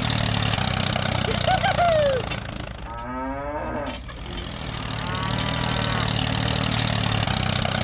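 A cow mooing several times, the longest and strongest call about three seconds in, over the steady running of a small engine.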